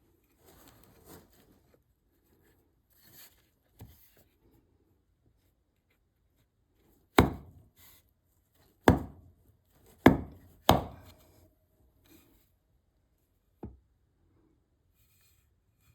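Four sharp knocks of a tool striking cherry wood, the first about seven seconds in and the rest in quick succession, then a lighter knock near the end.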